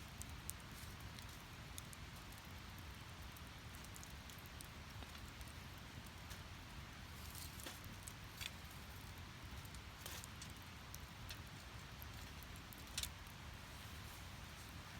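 Split firewood burning in a small fire pit: a steady low rustle of flame with scattered sharp crackles and pops, the loudest pop about thirteen seconds in.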